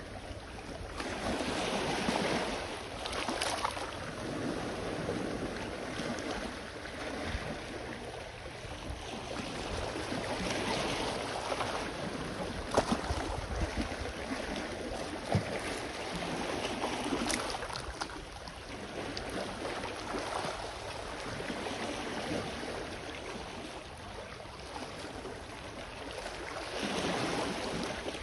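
Small sea waves washing onto the shore, the surf swelling and falling away every few seconds, with a few sharp splashes, over a low rumble of wind on the microphone.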